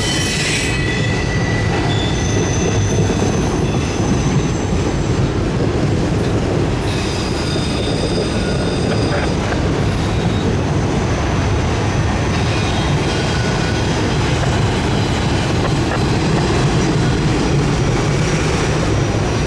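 CSX freight train rolling past on a curve: a steady rumble of wheels on rail with high-pitched wheel squeal coming and going over it.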